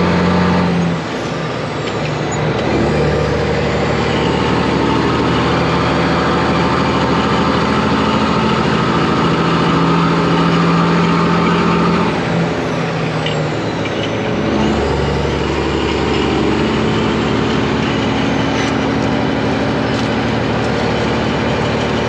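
Kenworth truck's Detroit Diesel engine running on the road, heard from the cab. Its note drops about a second in and changes again around twelve and fourteen seconds in.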